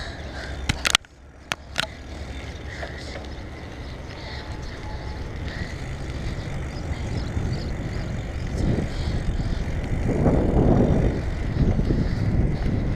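Bicycle ride heard through an action camera's microphone: wind rushing over the mic and the bike rattling on the rough ground. A few sharp knocks come about a second in, and the rush grows louder from the middle on, loudest about two-thirds of the way through.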